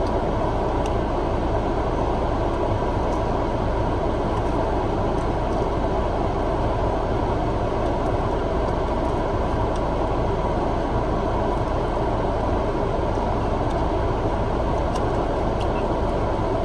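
Steady, even hum and rush of noise inside a car's cabin.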